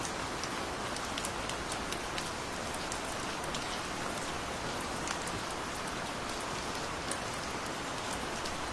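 Steady rain falling, an even hiss with many scattered drop ticks hitting a surface.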